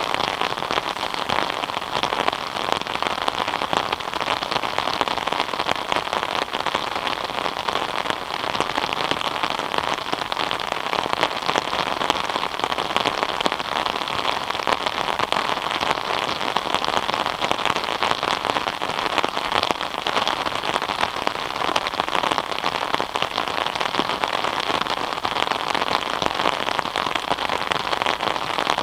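Steady rain falling, a dense even patter of many drops hitting surfaces.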